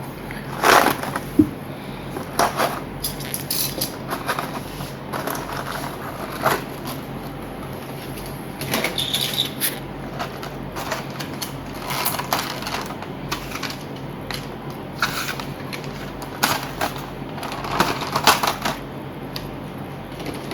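Irregular clicks, taps and rustles of scale-model aircraft parts and their packaging being handled and set down, over a steady low hum.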